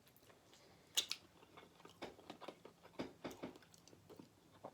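A person chewing food close to the microphone: faint, irregular mouth clicks, with one sharp click about a second in.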